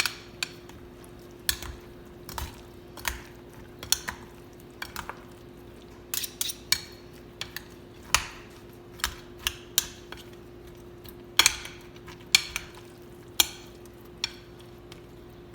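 A spoon stirring a mixture in a bowl, knocking and clinking against the bowl's sides in irregular strokes, about one or two a second, some with a short ring.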